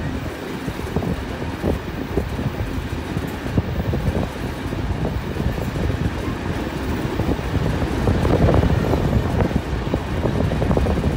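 Train carriage running along the line, its wheels rumbling and knocking on the rails, with wind buffeting the microphone at the open window. The running grows a little louder about eight seconds in.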